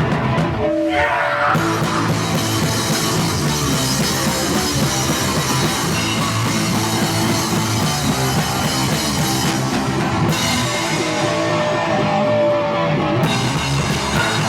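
Punk band playing live and loud, with distorted electric guitar and drums, as captured on a VHS camcorder.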